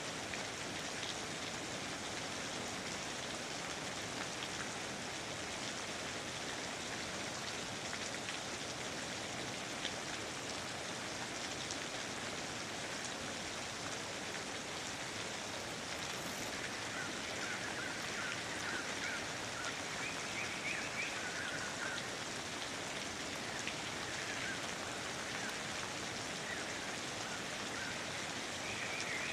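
Steady rain falling in a rainforest, an even patter of drops. Faint short chirps come through the rain from about halfway through.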